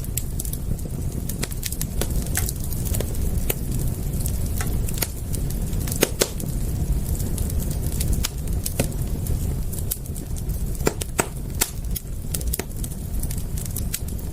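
Wood fire crackling: irregular sharp pops and snaps over a steady low rumble of burning flames, with the loudest pops about six seconds in and about eleven seconds in.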